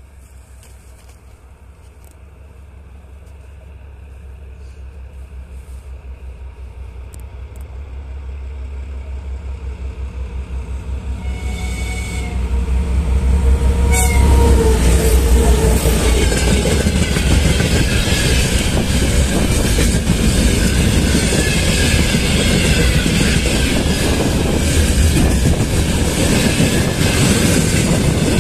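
A twin-section 2M62U diesel locomotive with two-stroke engines approaches, its low engine rumble growing steadily louder. It sounds its horn for about two seconds shortly before passing close by. A long train of loaded tank cars then rolls past with loud, continuous wheel noise and clatter.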